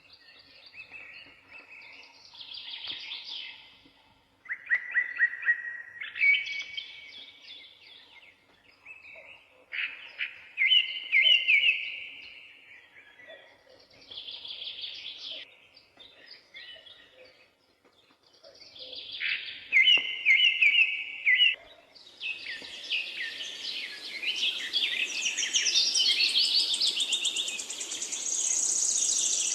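Wild songbirds singing short, repeated chirping phrases separated by brief pauses. About three quarters of the way through, a steady rushing noise comes in beneath a denser stretch of overlapping song.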